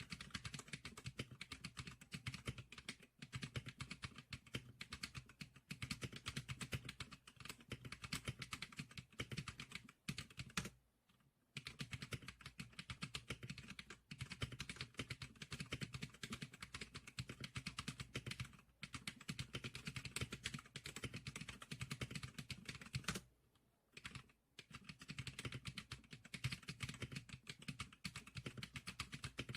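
Rapid, continuous typing on the Zikliker SPK100 keyboard, a dense run of key clicks broken by two short pauses, about a third and about three quarters of the way through.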